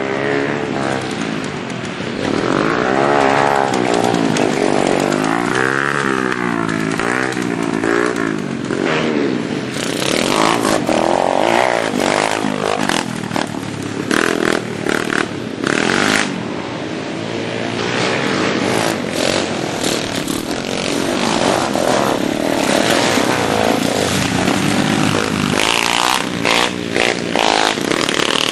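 Small single-cylinder four-stroke minibike engine revving up and down as the bike is ridden. From about a third of the way in, frequent knocks and clatter sound over it.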